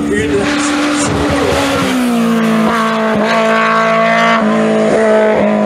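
Simca rally car's engine revving hard as the car approaches, gradually louder. The note holds high, then breaks off briefly and steps in pitch about five times.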